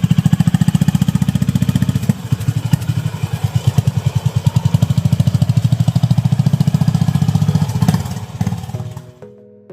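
Honda GB350's air-cooled single-cylinder engine running with an even beat of exhaust pulses. It dips briefly about two seconds in and fades out near the end, where music tones begin.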